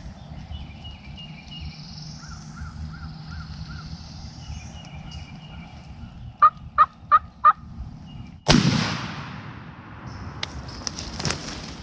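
Four sharp turkey calls in quick succession, then a single loud shotgun blast that fades away over about two seconds, with a few sharp knocks after it. Before the calls, a small songbird chirps faintly over outdoor background.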